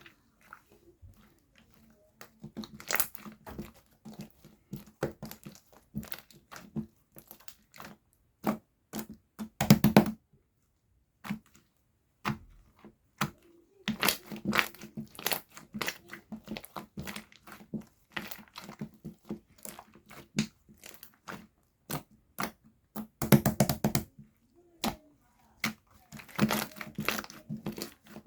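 Slime being squeezed, poked and stretched by hand, making runs of crackling, clicking pops with a couple of short pauses.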